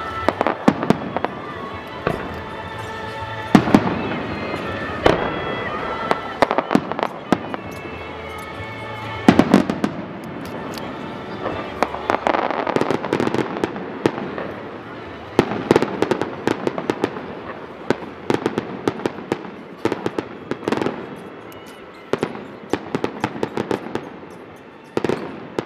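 Fireworks display: aerial shells bursting with sharp bangs, the loudest three in the first ten seconds, then denser runs of crackling bangs. Music plays underneath.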